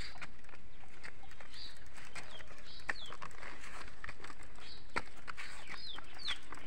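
Birds calling with short falling chirps every second or so, over a few irregular sharp clicks.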